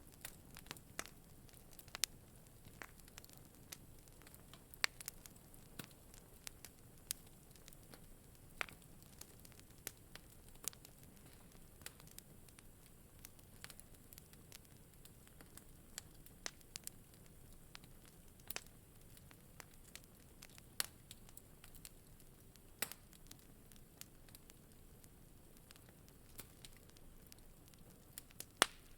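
Wood fire in a fireplace crackling: irregular sharp pops and snaps, a handful louder than the rest, over a faint low hiss.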